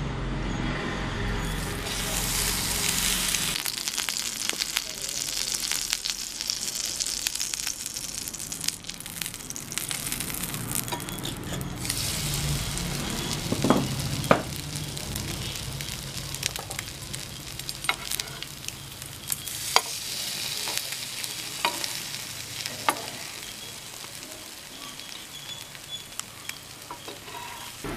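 Egg-and-milk-soaked bread slices sizzling as they fry in a hot nonstick pan: a steady hiss with scattered sharp pops and clicks.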